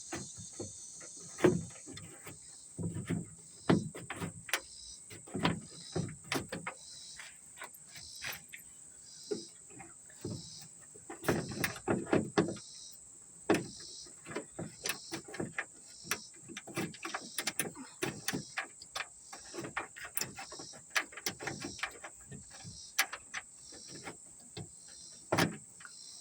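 Irregular metallic clinks, knocks and rattles of hand tools and loosened bolts at a Crown Victoria's trunk latch as it is worked free, with a cluster of quicker knocks about halfway through. A steady high insect buzz sits underneath.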